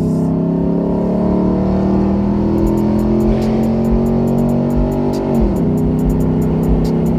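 Car engine pulling under acceleration, its pitch rising slowly, then dropping sharply at an upshift about five and a half seconds in before it pulls again.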